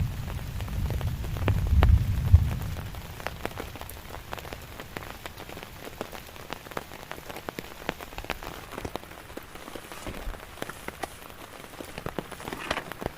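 Rain falling, with many separate drops striking close by. A loud low rumble runs under it for the first couple of seconds, then fades and leaves scattered drop hits.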